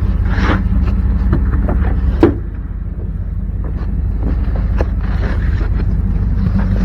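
A steady low engine hum, like a vehicle idling, under scattered clicks, knocks and rustles of items being handled, with one sharp louder knock about two seconds in.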